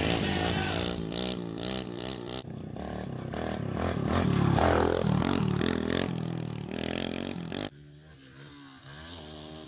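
Small pit bike engine revving up and down as it is ridden on a dirt track. About three-quarters of the way through the level drops suddenly, and the engine carries on fainter.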